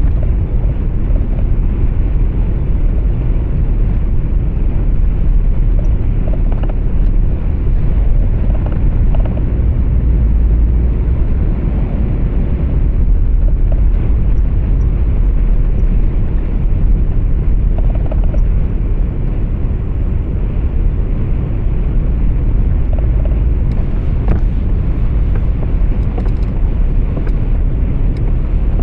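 Steady low rumble of a truck's engine and tyres on the road, heard from inside the cab, even in level throughout.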